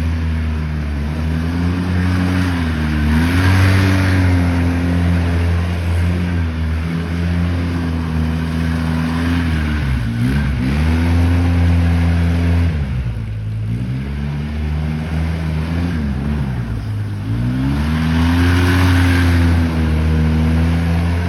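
ATV engine running under throttle, its revs steady for long stretches, then dropping off and climbing back three times.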